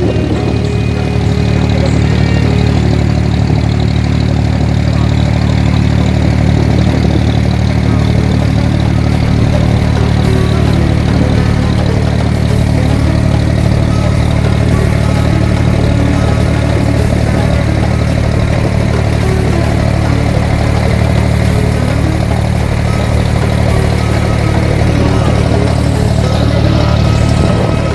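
Abra water-taxi's inboard engine running steadily under way, a loud, even drone.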